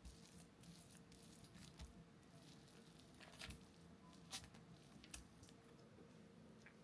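Near silence: quiet room tone with a few faint, soft clicks and taps.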